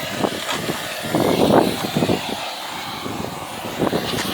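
A machine's engine running steadily, with irregular knocks and clatter over it and a louder stretch a little over a second in.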